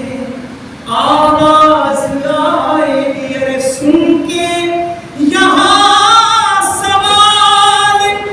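Unaccompanied peshkhwani, elegiac devotional verse, sung in long held notes. A new phrase begins about a second in and another about five seconds in.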